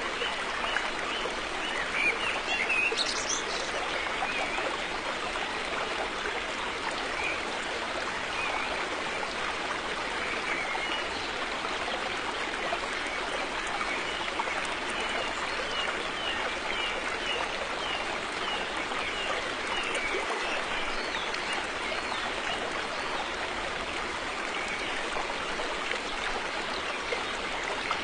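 River water flowing with a steady rushing sound, with a few short bird chirps over it, around three seconds in and again through the middle.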